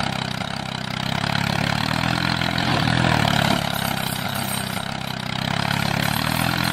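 Tractor-style diesel engine running steadily at idle, with a low, slightly wavering throb.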